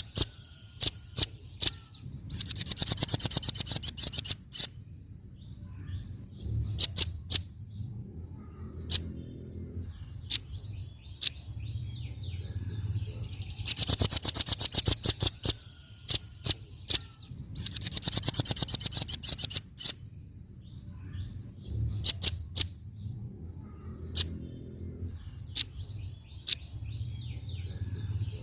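Velvet-fronted nuthatch calling: rapid chattering trills of sharp, high notes lasting a second or two, with a few single sharp notes between them, the sequence repeating about every 14 seconds as a looped recording over a low hum.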